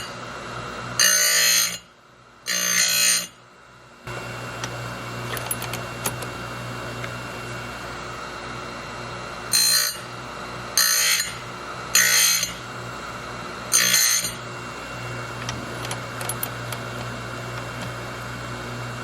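Electric chainsaw-chain sharpener: its motor runs with a steady hum, and the grinding wheel gives a short, high, ringing screech each time it is brought against a cutter tooth, about six passes in all. The teeth are chipped and are being ground to a new edge at about 25 degrees.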